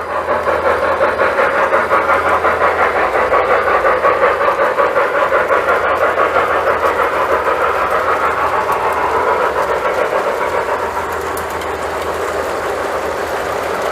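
Lionel model train running around the layout's track: a steady rolling rumble that pulses about three times a second and eases off slightly about eleven seconds in.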